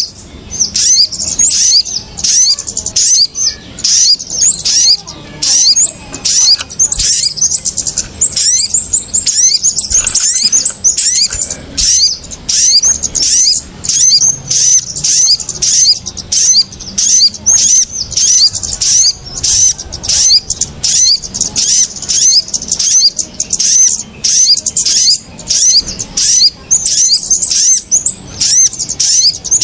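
Bird-trapping lure recording of small songbirds, kemade and sogon, giving rapid, agitated high-pitched chirps in a dense unbroken stream, a few calls a second. The noisy, excited calling is the kind used to pull other small birds down to the lime sticks.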